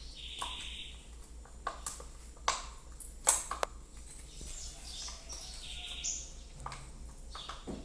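Slime being squeezed and stretched in the hands, giving a run of wet clicks and pops, the loudest a little after two and three seconds in. Two short high chirps, one near the start and one about six seconds in, and a steady low hum run under it.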